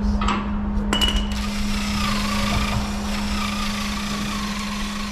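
Welding arc struck about a second in and held, a dense steady crackling hiss over a constant low hum.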